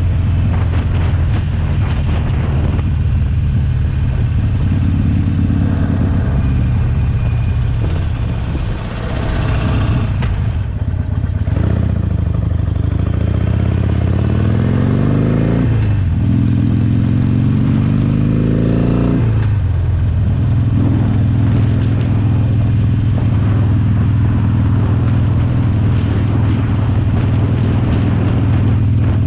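2019 Harley-Davidson Sportster Forty-Eight's 1200 cc V-twin running through a Jekill & Hyde valved exhaust while riding. It holds a steady cruise, drops off briefly about a third of the way in, then revs up in two rising sweeps as the bike accelerates through the gears, and settles back to a steady cruise after the middle.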